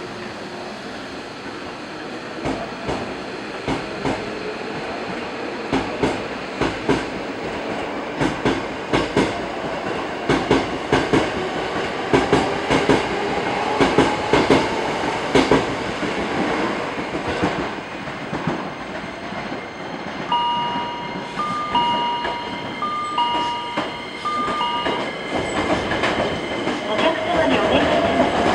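Hankyu Railway electric train running past, its wheels clacking rapidly over rail joints over a steady rumble. Later a two-tone electronic chime sounds in short alternating beeps, and near the end a rising whine sets in.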